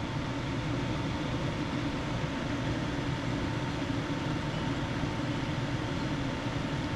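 Steady whirring hum and hiss of a fan running, with a faint thin steady whine above it.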